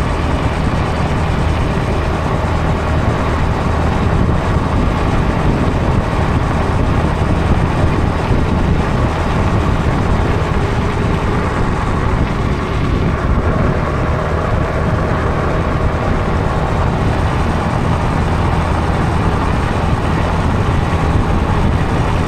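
Honda ADV350 maxi-scooter's single-cylinder engine running at a steady cruise under a steady rush of wind and road noise.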